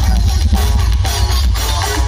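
Loud dance music with a heavy, booming bass, played through a large carnival sound system with big subwoofers.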